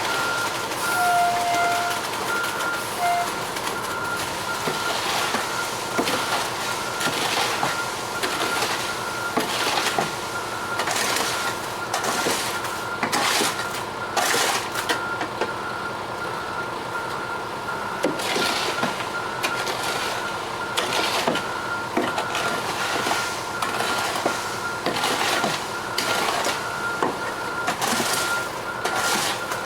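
Ready-mix concrete truck running, its backup alarm beeping steadily and evenly over the engine, with irregular rough noises a second or so long on top.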